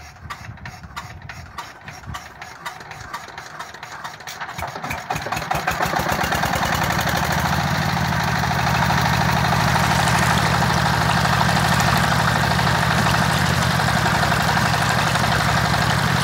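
Diesel water-pump engine starting: slow, separate chugs that speed up over the first several seconds until it settles into a steady run.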